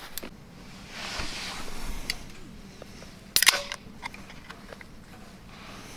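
Hands handling gear: a soft rustle, scattered small clicks and knocks, and one sharp clatter about three and a half seconds in.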